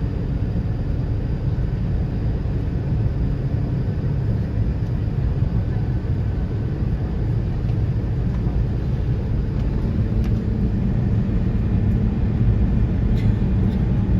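Airbus A380 jet noise during takeoff: a steady low rumble that grows a little louder about ten seconds in, with a low hum coming up in it.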